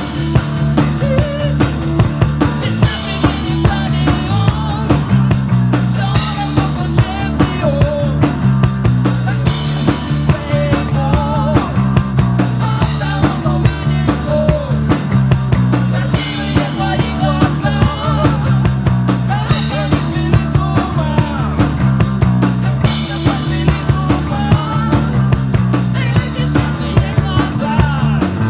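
Rock band playing live: a steady drum-kit beat under a repeating bass line, with electric guitar lines over the top.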